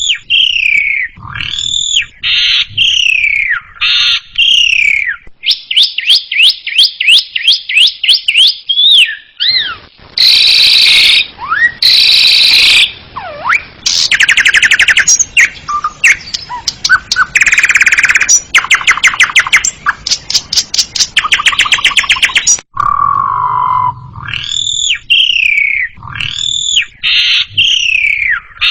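Asian pied starling (jalak suren) singing a loud, varied song: whistled notes that rise and fall, fast rattling trills and harsh buzzy phrases. The song's opening phrases start over about 23 seconds in.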